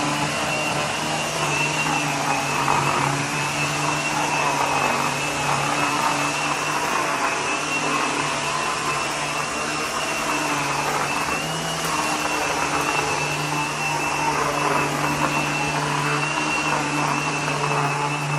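Vacuum cleaner running steadily on an entryway mat, with a constant high whine over its motor hum and a shifting rushing sound as it passes over the mat.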